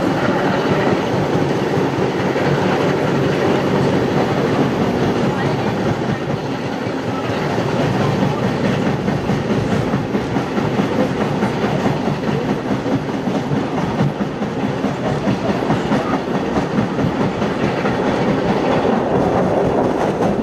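Heritage passenger train carriages running along the track, heard from an open carriage window: a steady rolling rumble with wheels clickety-clacking over the rail joints, the train hauled by steam locomotive 5917.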